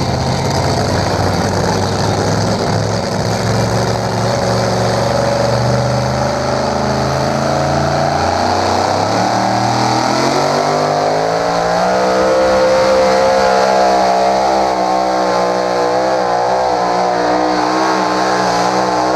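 Engine of a pulling vehicle running hard: its pitch climbs steeply about halfway through, then holds high with a slight waver.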